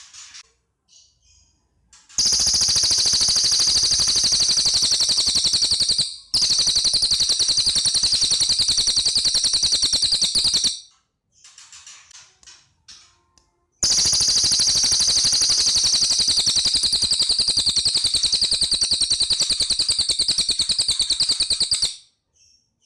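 Cililin songbird singing: two long, loud, very rapid machine-gun-like trills of high notes, the first with a brief break partway through, separated and followed by softer short chirps.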